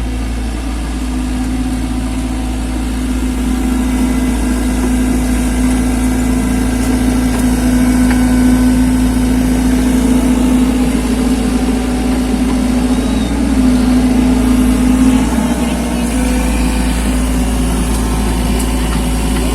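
Mini excavator engine running steadily with a constant hum, getting a little louder through the middle.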